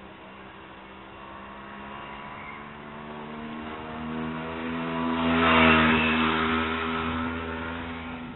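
A motor vehicle passing close by: its engine hum grows louder, peaks with a rush of noise about five and a half seconds in, then fades away.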